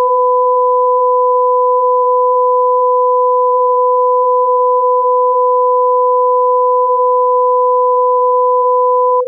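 A steady electronic tone at two pitches an octave apart, held unchanged for about nine seconds and cut off suddenly at the end.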